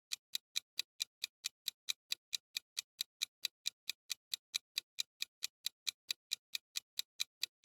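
Quiz countdown timer sound effect: even clock ticks, about four a second.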